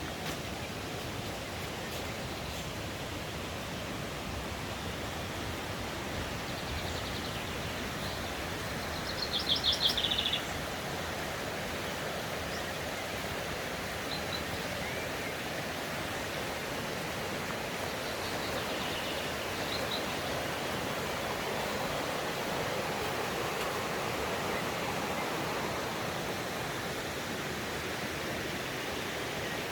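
Steady rush of a mountain stream, with songbirds calling over it. Near the middle comes a louder, quick phrase of rapidly repeated high bird notes lasting about a second and a half.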